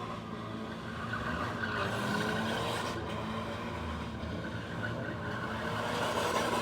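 A drift car's engine revving hard, the pitch rising and falling, with a noisy haze that swells about two seconds in and again near the end.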